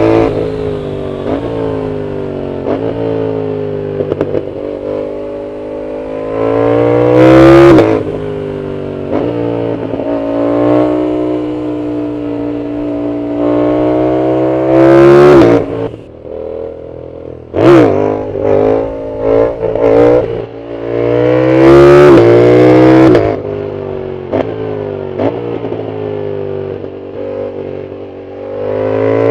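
Yamaha MT-07's CP2 parallel-twin engine through a full aftermarket exhaust, heard from the rider's seat: it climbs in pitch in long sweeps and drops back at each gear change, several times over. Around the middle it falls off and gives a quick series of sharp throttle blips before pulling hard again.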